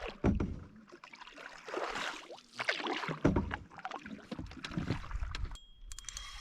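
Canoe paddle strokes swishing and splashing through the water, roughly one a second. Near the end the sound cuts to a rapid run of sharp mechanical clicks.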